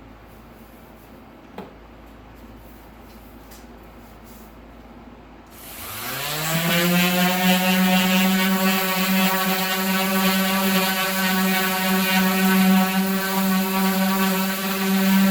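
Electric power tool for woodworking switched on about five seconds in: its motor spins up quickly, rising in pitch, then runs steadily at full speed. A single small click comes before it.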